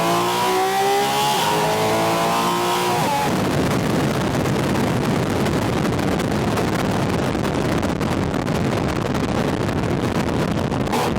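Porsche 718 Spyder RS's naturally aspirated flat-six, heard through a microphone on its air intake, pulling with rising pitch. About three seconds in the engine note drops away and a loud rushing of wind and intake air takes over.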